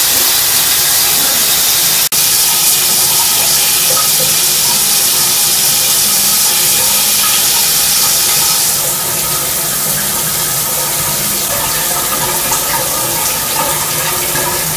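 Shower head spraying water: a steady loud rush of running water. It cuts out for an instant about two seconds in, and softens slightly about nine seconds in.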